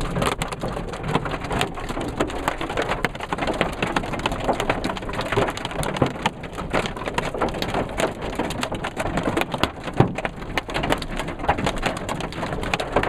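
Hail drumming on a car's windshield and roof, heard from inside the car: a dense, constant patter of sharp hits, with the odd louder crack standing out, such as one about ten seconds in. The hailstones are nearly quarter-size and hard enough to crack the windshield.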